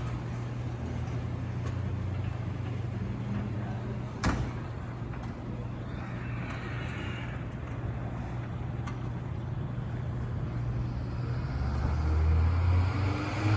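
A vehicle engine running steadily, with one sharp knock about four seconds in. A louder engine sound builds near the end.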